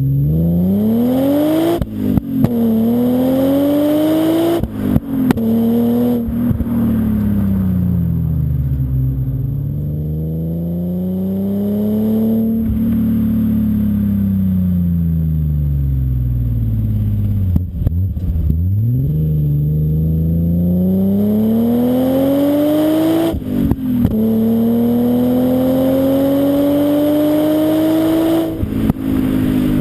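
BMW M5 E34's S38B38 3.8-litre straight-six through a Scorpion exhaust, accelerating hard through the gears: the pitch climbs, then drops sharply at each of several upshifts. In the middle the revs fall slowly and rise again as the car eases off and picks up speed.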